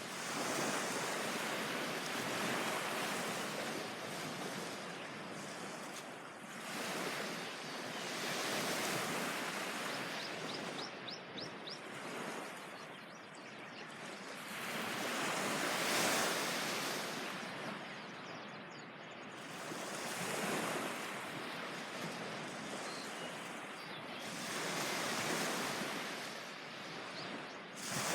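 Surf breaking and washing on a beach, the noise of the waves swelling and falling away every few seconds.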